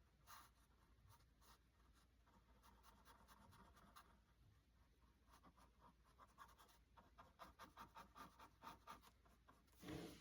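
Faint, quick strokes of a paintbrush on canvas as acrylic paint is blended, with a brief louder sound near the end.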